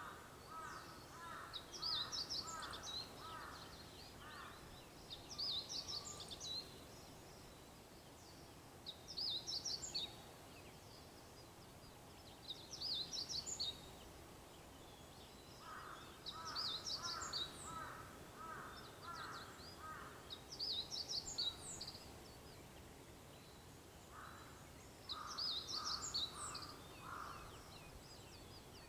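Dawn birdsong: a songbird repeats short, high, twittering phrases every three to four seconds, while a crow caws in runs of quick repeated calls at the start, again past the middle and near the end.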